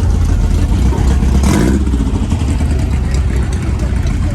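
Car engine running with a low steady rumble, with a short louder rev about a second and a half in.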